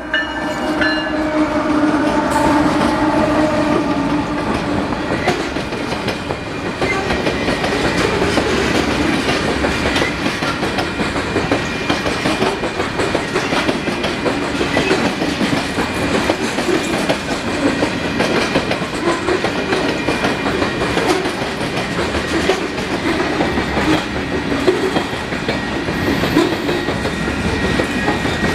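Canadian Pacific freight train rolling past, its cars clattering steadily over the rails. The last of a horn note dies away in the first couple of seconds.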